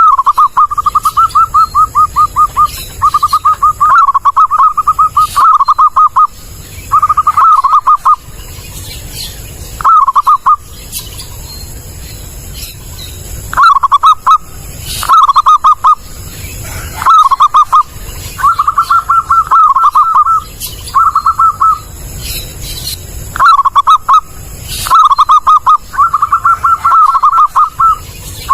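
Zebra dove (perkutut) cooing: loud, clear phrases of rapid staccato notes, repeated over and over with short irregular pauses between them.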